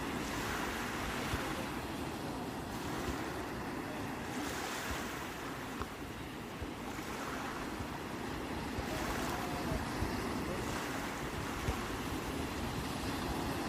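Sea waves breaking and washing in, the hiss swelling every couple of seconds, with wind rumbling on the microphone.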